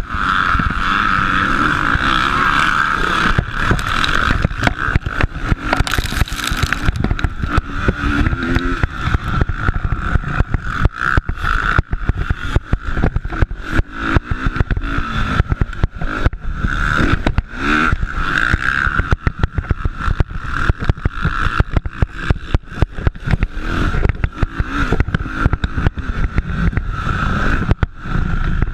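Motocross bike engines running hard during a race, the revs rising and falling, over a constant rough crackle.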